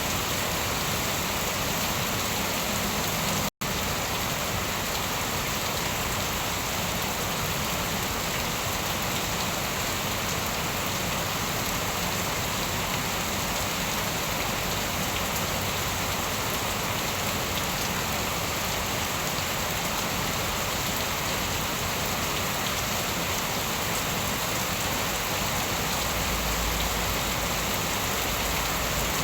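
Steady rain falling, a dense even hiss of drops that cuts out completely for an instant about three and a half seconds in.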